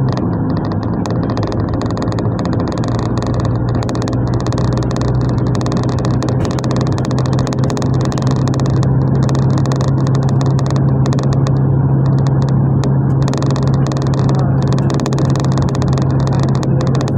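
GAZelle minibus driving, heard from inside the passenger cabin: a steady engine drone over road and tyre noise. The engine note drops right at the start, then holds level.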